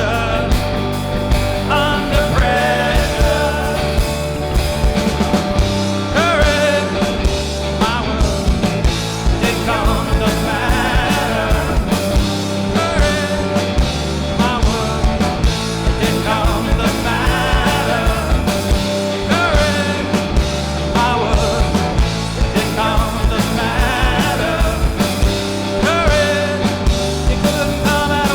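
Live rock band playing a song: regular drum beats under a melodic lead that bends in pitch.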